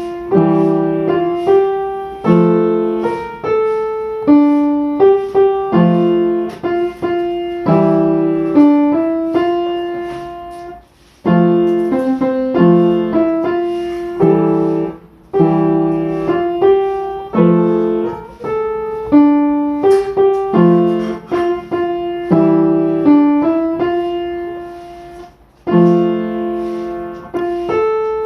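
Solo piano music: a gentle melody over broken chords, in phrases with brief pauses between them.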